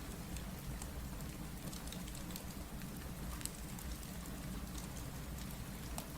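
Steady rain, a continuous even hiss over a deep rumble, with scattered small sharp ticks throughout.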